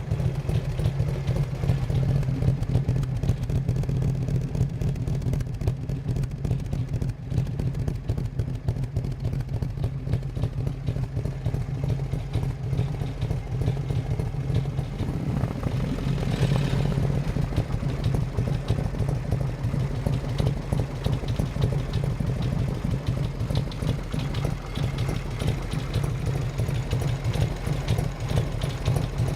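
Harley-Davidson FXR's V-twin engine running through a 2-into-1 exhaust, idling steadily, with a brief rise in sound about halfway through.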